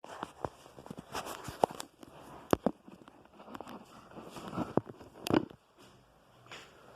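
Someone eating a bisteca chop close to the microphone: irregular sharp clicks, knocks and crackle of chewing and handling the food, a few of the clicks ringing briefly.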